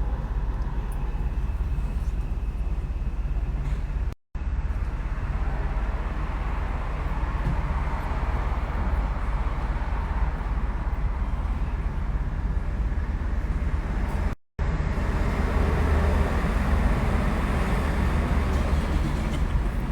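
Steady rumble of road and engine noise inside a moving car, interrupted twice by brief silent gaps.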